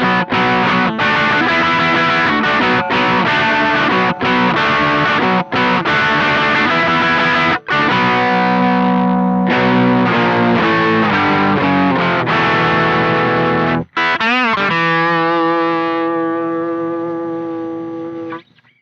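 Electric guitar played through the Witchcraft Velouria FX distortion/preamp pedal: heavily distorted chords in a riff with brief stops. About fourteen seconds in, a chord wavers quickly in pitch, then rings on and fades until it is cut off just before the end.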